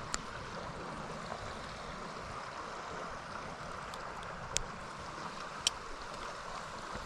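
Steady rush of flowing stream water running over rapids, with three brief sharp clicks: one at the very start and two about two-thirds of the way through.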